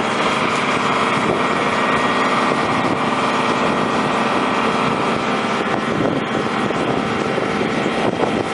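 Engines running at a steady drone, with no change in pitch or level.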